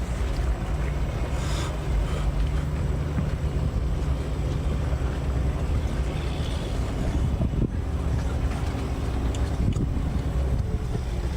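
An engine running steadily with a low hum, with wind noise on the microphone.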